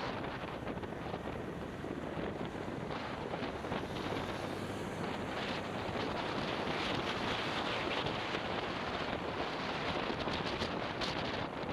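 Wind rushing over the action camera's microphone on a moving motorbike, a steady dense rush with the bike's running and road noise mixed in.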